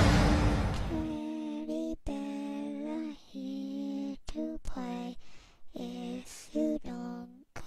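A woman's voice humming a slow, lullaby-like tune in short held phrases, starting about a second in. Before it, a loud rushing noise fades out.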